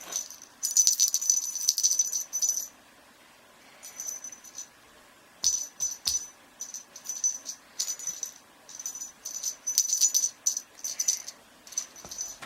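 A small rattle shaken in repeated bursts of bright, clicky jingling with short pauses between, and a few soft thumps about five and a half seconds in.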